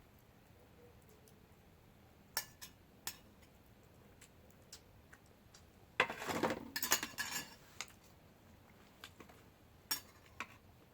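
Eating utensils clinking and scraping against dishes: a few single clinks, then a short burst of rapid clattering about six seconds in, then a couple more clinks near the end.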